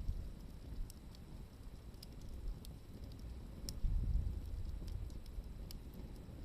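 Wood fire crackling with scattered single sharp pops over an uneven low rumble, which grows louder about four seconds in.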